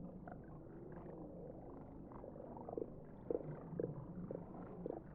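Faint pond sounds: a low steady rumble with soft clicks and short blips, which grow more frequent from about halfway through.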